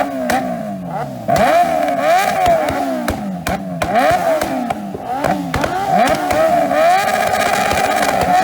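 Motorcycle engines being revved hard again and again, their pitch climbing and falling back in quick overlapping sweeps. Near the end one engine is held at the rev limiter with a steady buzzing note.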